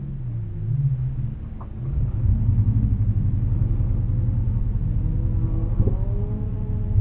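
Car engine running, heard from inside the stopped car as a steady low rumble that grows louder about two seconds in.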